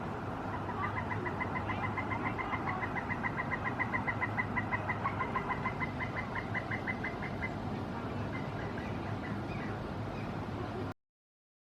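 Pileated woodpecker giving its long call: a steady run of rapid, evenly spaced notes, about seven a second, lasting several seconds.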